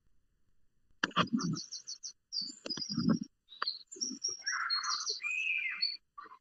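Birds chirping and trilling, heard through a video-call microphone: quick repeated high notes start about a second in, with some lower sounds mixed in.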